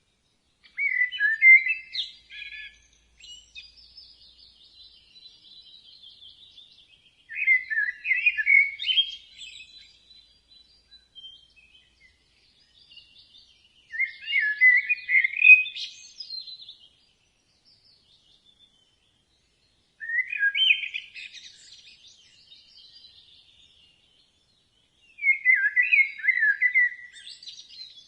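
Young budgerigars chirping: five loud bursts of rapid chirps a few seconds long, about six seconds apart, with fainter, higher chatter between them.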